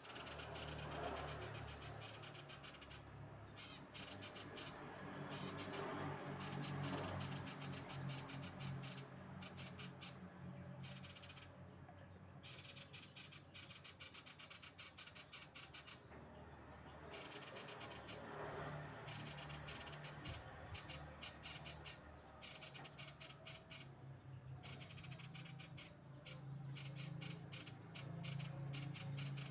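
A young male sirtu bird practising its song: quiet, rapid twittering that comes in stretches with short breaks, over a steady low hum.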